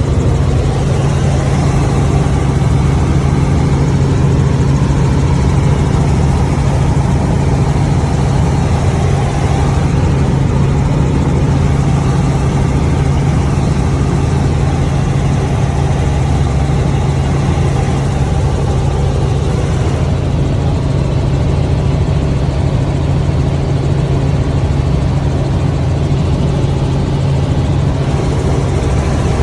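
A vehicle engine running with a steady, unchanging drone and a strong low hum.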